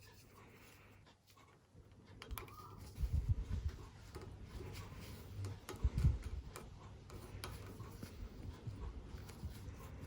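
Scattered light clicks and ticks with a few dull knocks, like small metal parts and tools being handled on a bench. The sounds begin about two seconds in, and the louder knocks come around the middle.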